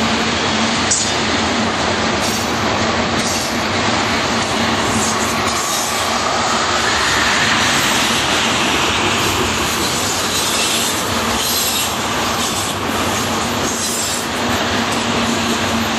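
Tank cars of a freight train rolling past close by: a steady, loud rumble and clatter of steel wheels on the rails, with a faint wheel squeal in the middle.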